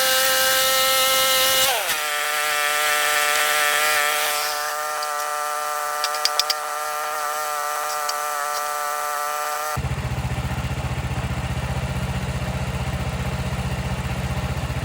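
Portable band sawmill's gas engine running as the blade comes through a cut in a pine log. About two seconds in its pitch drops and settles to a steady run, with a few sharp clicks a few seconds later. Near ten seconds it switches abruptly to a low, fast-pulsing engine idle.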